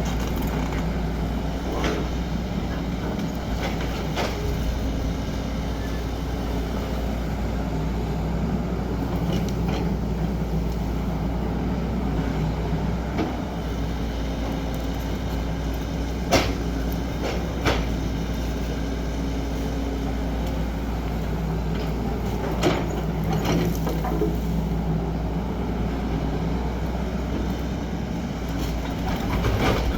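XCMG 75 excavator's diesel engine running steadily under work, with a few sharp metallic clanks about midway.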